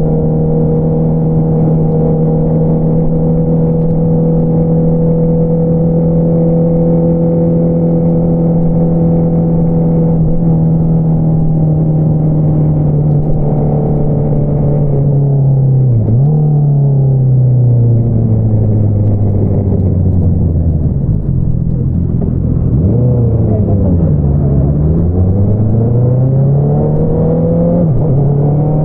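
2022 Honda CBR650R's inline-four engine through an Akrapovič single-outlet exhaust. It holds a steady pitch for about fifteen seconds, then the revs fall and rise in several quick swings, and it climbs again under acceleration near the end.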